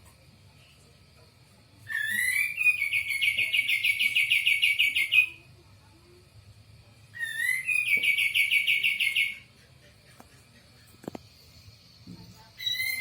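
A songbird singing the same phrase twice, each a rising sweep that breaks into a rapid, even trill lasting a few seconds; a third phrase begins near the end.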